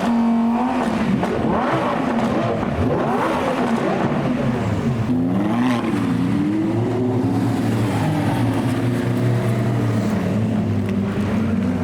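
Supercar engines revving over and over, among them a Lamborghini Aventador's V12: quick overlapping blips in the first half, then slower rising and falling revs over a steady idle.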